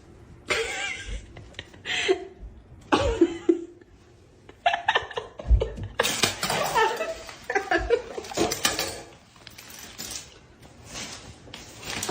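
Human laughter in repeated short bursts, with chuckles and giggles between them.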